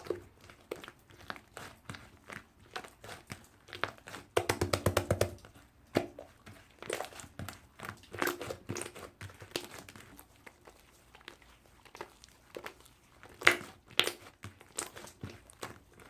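Hands squishing and poking slime, making sticky clicks and crackling pops, with a quick run of about ten pops a second around four seconds in.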